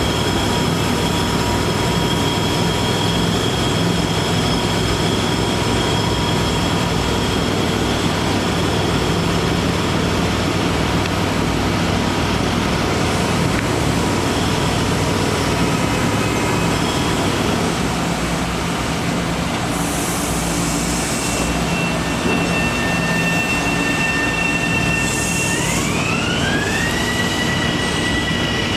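Bombardier M7A electric multiple-unit train on the rails, a loud, steady rumble with a high electric whine from its motors. Two short bursts of hiss come in the second half, and near the end the whine climbs in pitch and then holds as the train picks up speed.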